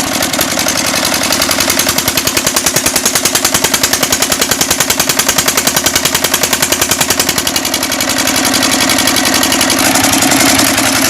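A 14 hp stationary diesel engine running with a fast, even beat of firing pulses, growing a little louder about eight seconds in.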